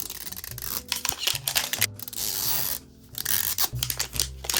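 Plastic wrapping crinkling and tearing as a Mini Brands toy capsule ball is unwrapped, with many small crackles and a longer rip about two seconds in.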